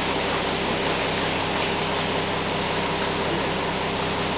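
Concrete truck engine running steadily: a constant low hum under an even rushing noise.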